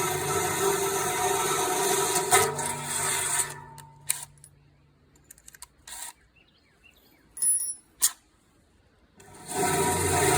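Electric power tool motor running steadily, then winding down about three and a half seconds in. A few light metallic clicks and clinks come during the pause, and the motor spins back up near the end.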